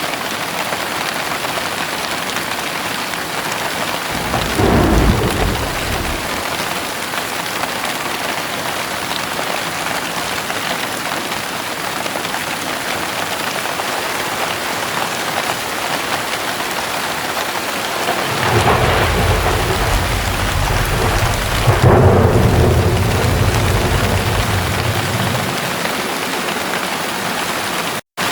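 Steady heavy rain with thunder: a short low rumble about four seconds in, then a longer, louder rolling rumble that builds and fades over about seven seconds. The sound cuts out for a moment near the end.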